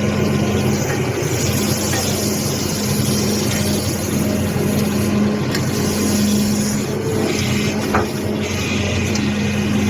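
Tractor diesel engine running steadily with a constant low hum, with one short knock about eight seconds in.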